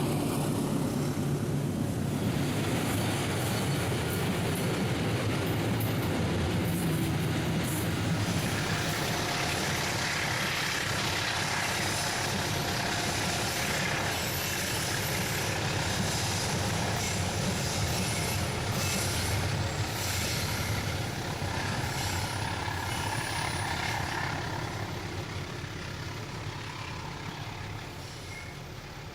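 Freight train running past: a CC 206 diesel-electric locomotive's steady engine rumble with tank wagons clattering on the rails and faint high squeals. The sound dies away over the last several seconds as it moves off.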